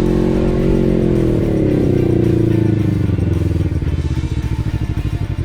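Motorcycle engine running steadily, then dropping in revs about two seconds in as the bike slows, settling into a low, even putter.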